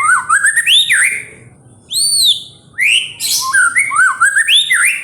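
White-rumped shama (murai batu) singing: loud, clear whistled notes that sweep up and down in quick runs, broken by short pauses.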